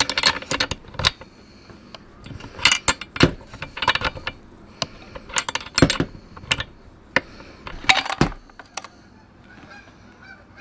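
Irregular clusters of sharp metallic clicks, clinks and scrapes from hand tools working the old spark plug out of a McCulloch Mac 1010 chainsaw.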